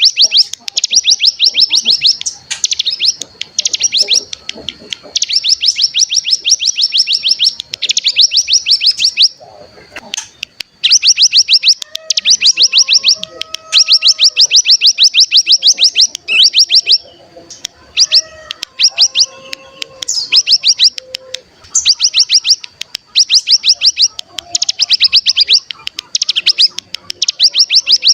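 Ciblek gunung (cigun) songbird singing its 'ngebren' song: loud, very rapid high trills in repeated bursts of a second or two. Softer, lower whistled notes come in between, in the middle stretch.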